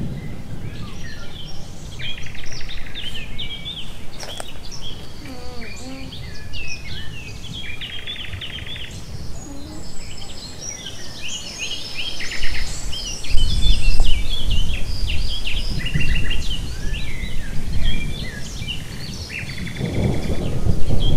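Several birds singing, with chirps, trills and whistles overlapping throughout. A low rumble swells underneath about 13 seconds in and again near the end.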